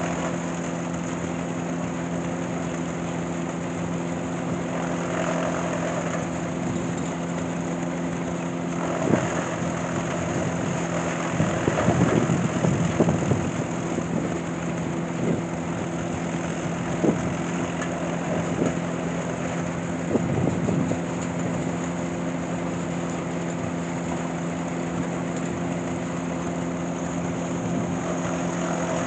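An engine running steadily at an even speed, with a few irregular knocks and clanks over it for a stretch in the middle.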